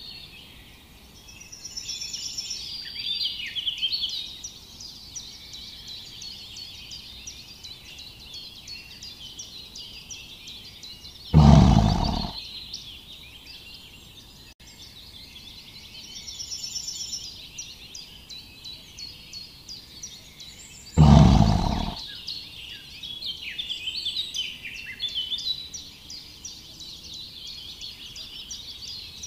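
Many birds chirping and singing steadily in a woodland chorus. Two loud, deep sounds about a second long break in, about 11 seconds in and again about 21 seconds in.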